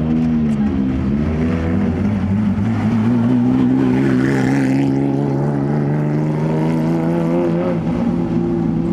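Porsche 911 rally car's flat-six engine at low revs, blipped up and down a few times, then held steady as the car drives off slowly.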